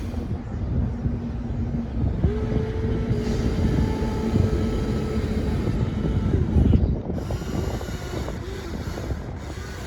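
Small electric motors and gearboxes of radio-controlled construction toys running, with a steady whine over a low rumble; a second, higher whine joins about two seconds in and fades a few seconds later.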